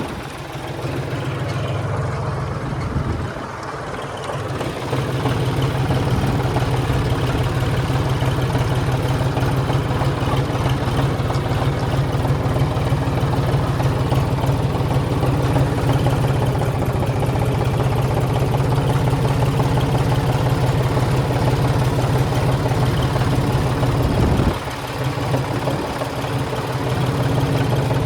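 Tractor engine running steadily with an even low hum. It eases off briefly about three seconds in and again near the end, then picks back up.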